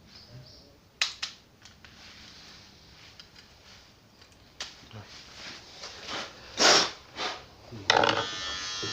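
Scattered clicks and handling noises, then, about eight seconds in, electric hair clippers switch on and buzz steadily.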